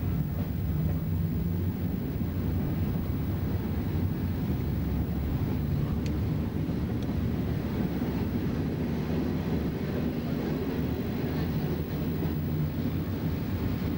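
Electric commuter train running, heard from aboard: a steady low rumble of wheels on rails and running gear with a faint underlying hum.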